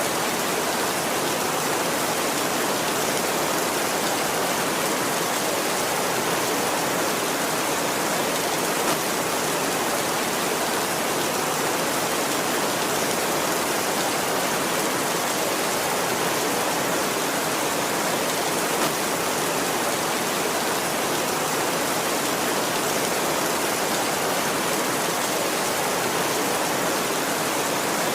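Heavy rain falling steadily on a tin roof, a dense, even patter with no let-up.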